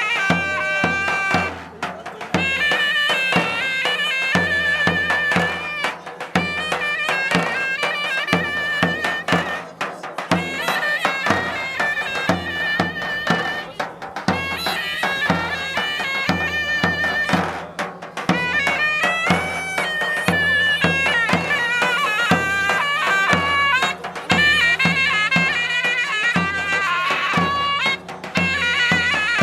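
Traditional folk music: a reed wind instrument plays a busy melody over steady low drum beats.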